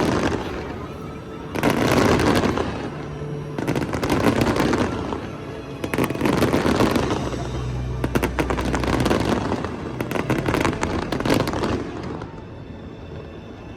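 Aerial fireworks going off: repeated booms with dense crackling, a new burst roughly every two seconds, dying down about twelve seconds in.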